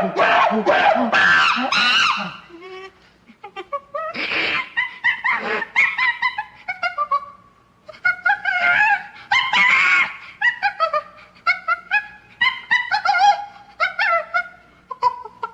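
Rapid runs of short, high monkey-style hooting and screeching calls, a dense burst at first, then after a short pause many quick chattering calls with one more brief lull midway.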